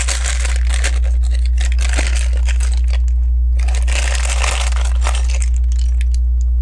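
Hands sifting through loose plastic LEGO pieces, in two spells of clicking, rattling and rustling, over a steady low hum.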